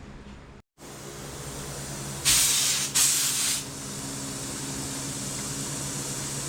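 Two short bursts of gas hissing out under pressure, one right after the other about two seconds in, over a steady low machine hum.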